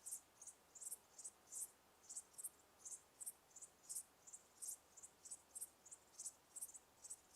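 Crickets chirping: short, high-pitched chirps repeating about three times a second, faint and steady.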